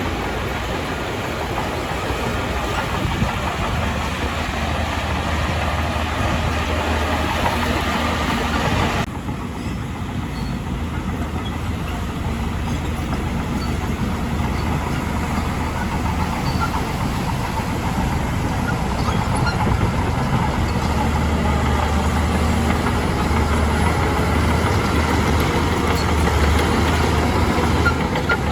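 Heavy diesel earthmoving machinery running steadily, with a low engine hum. The sound changes abruptly about nine seconds in, losing its higher part.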